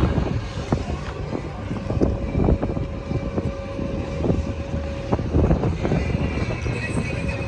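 Low, steady rumble of a vehicle in motion, with scattered knocks and a faint steady hum for a few seconds in the middle.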